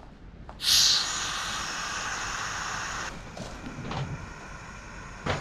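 Release valve of a Vevor 5-ton air jack opened, compressed air hissing out for about two and a half seconds as the unloaded jack lowers, then stopping suddenly. Quieter rustling follows, with a short click near the end.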